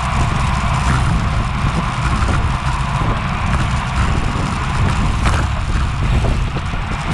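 Wind buffeting the microphone of a bike-mounted action camera during a road race, a loud steady rumble mixed with the hiss of road and tyre noise.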